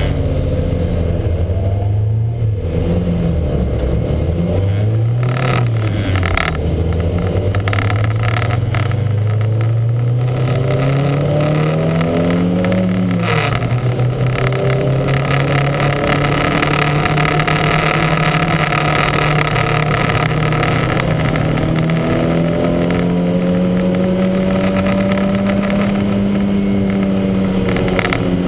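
Lancia Montecarlo race car's engine under hard acceleration. Its pitch rises and dips through a few quick gear changes at first, climbs to a sharp drop at an upshift about 13 seconds in, then rises slowly for a long stretch and eases off near the end.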